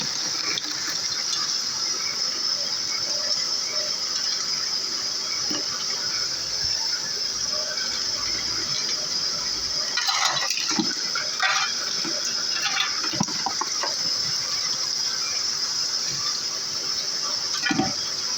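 Tube ice machine running, with a steady rush of flowing water. A few short knocks come about ten to thirteen seconds in, and another near the end.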